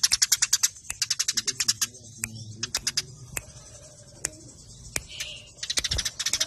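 Eurasian tree sparrows (house sparrow-type 'burung gereja') giving fast, tightly packed runs of sharp chirps, the agitated chirping of sparrows fighting. Rapid runs fill the first second and the last second or so, with scattered single chirps between.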